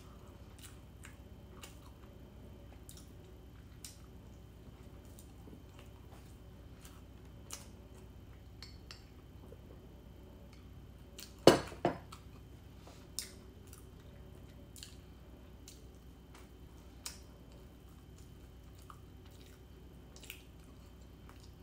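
Quiet close-up eating sounds from a person eating a scone: soft chewing with small scattered clicks over a low steady hum, and one sharp knock about halfway through.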